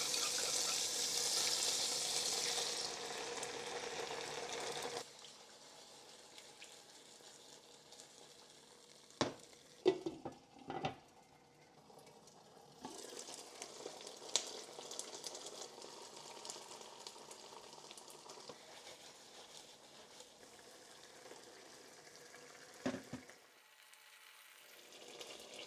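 Tofu in chili bean sauce sizzling in a pan as the cornstarch and oyster sauce mixture cooks. The sizzle is loudest for the first few seconds, then cuts off suddenly; a few knocks follow, and a fainter sizzle comes back midway.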